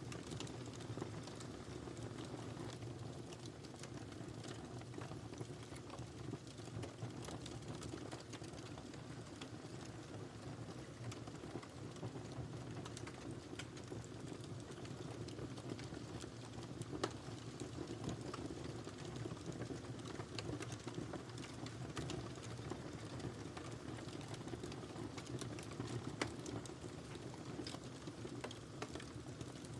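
Firewood burning in a fireplace: a steady low rush of flames with frequent small crackles and pops, and a couple of louder pops, one about halfway through and one near the end.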